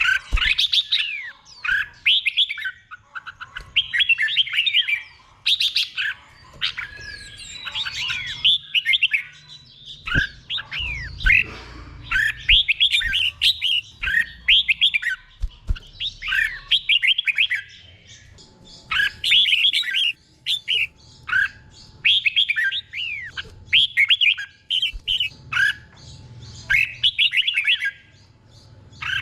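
Red-whiskered bulbul singing: short, bubbly whistled phrases of quick gliding notes, repeated one after another with brief pauses.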